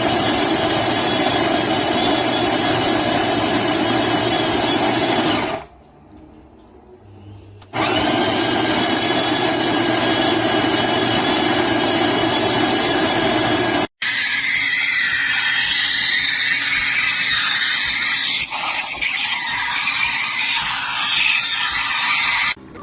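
Espresso machine running with a steady, loud motor buzz. It stops about six seconds in and starts again two seconds later. After an abrupt cut it gives way to a harsher hissing noise.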